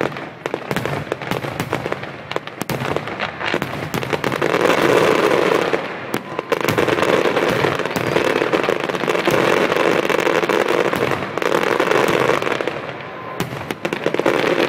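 Fireworks display: many overlapping bangs and crackles from aerial shells, densest and loudest from about four seconds in until shortly before the end.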